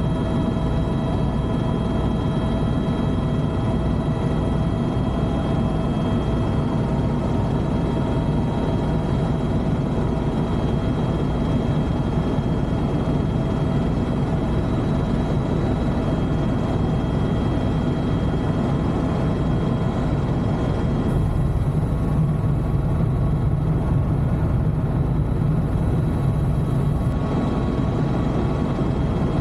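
Helicopter cabin noise in flight: the steady drone of the rotor and turbine engine, with a constant high whine over a low throb.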